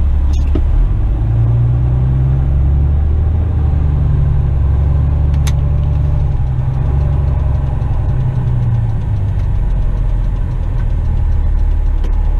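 Western Star tipper truck's diesel engine running, heard from inside the cab as a steady low drone; its note rises about a second in and settles back near the end. A single sharp click about five and a half seconds in.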